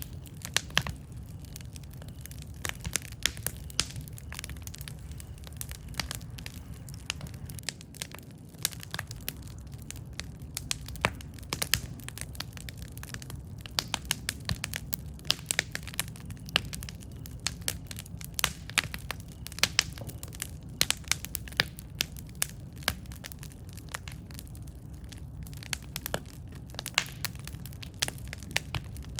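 Campfire burning: a steady low rumble of flame with frequent irregular sharp crackles and pops from the burning wood.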